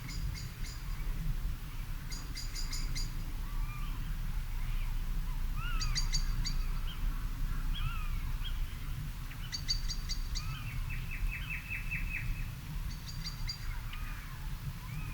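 Evening birdsong in a garden. Several birds call: a short burst of rapid high ticks comes back every three to four seconds, among scattered whistled notes and a quick trill a little after the middle. A steady low rumble runs underneath.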